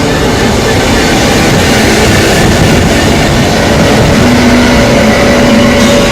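Loud, steady rumble of a Freightliner container train hauled by a Class 66 diesel locomotive, its wagons rolling through the station on the rails.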